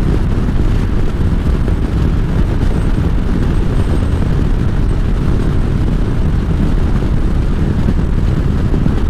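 Steady wind rush and engine rumble from a Harley-Davidson motorcycle being ridden, heavy in the low end.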